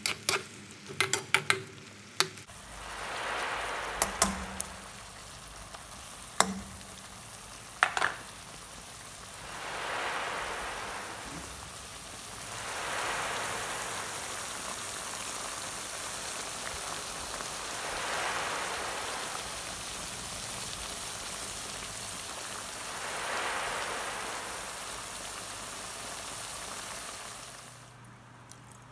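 Pork liver frying in its sauce in a metal pan: a steady sizzle that swells and eases every few seconds. A metal spatula clicks and scrapes against the pan for the first couple of seconds, with a few single knocks in the seconds after.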